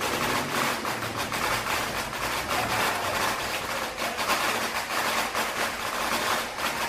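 Ground fireworks, a fountain and a spinner throwing sparks, giving a steady hiss dotted with many sharp crackles.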